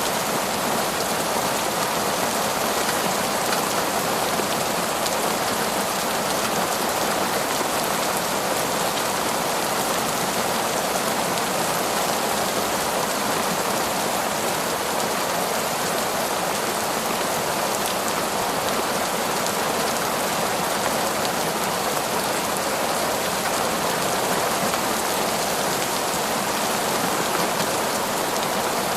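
Heavy, torrential rain falling steadily: a dense, even hiss that never lets up, with no thunder.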